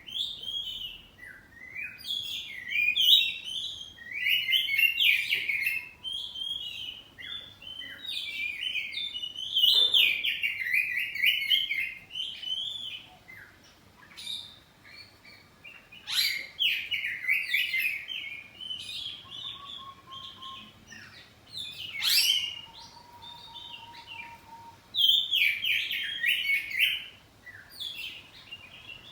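Oriental magpie-robin (kacer poci) singing a fast, varied warbling song in repeated phrases with short pauses between them, with a few sharp, piercing notes among the phrases.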